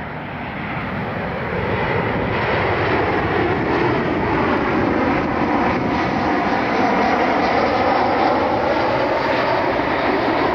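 Jet airliner passing close by on its landing approach. The engine noise swells over the first two seconds, then holds steady and loud, with slowly shifting whooshing tones.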